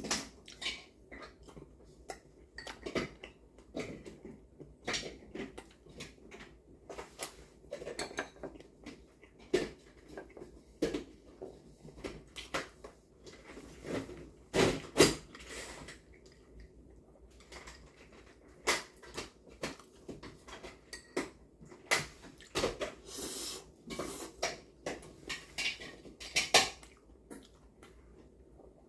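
Dishes and utensils clinking and knocking irregularly, many short light clatters with a few louder knocks.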